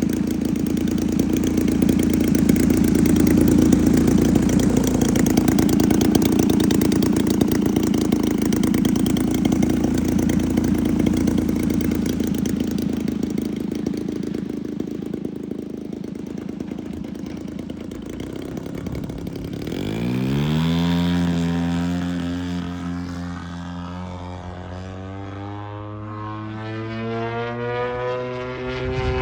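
Radio-controlled model airplane engine and propeller running. It is loud and dense at first and slowly fades. About twenty seconds in, a clear engine tone rises quickly and then holds, creeping slightly higher.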